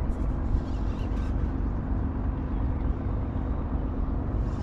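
Boat motor running steadily: a low rumble with a faint constant hum.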